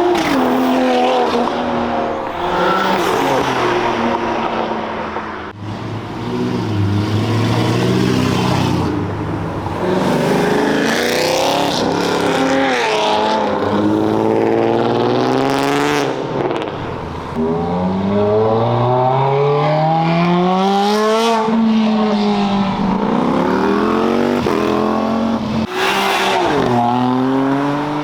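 Sports and supercar engines accelerating hard away one after another, each revving up through the gears in repeated rising sweeps that drop back at each shift.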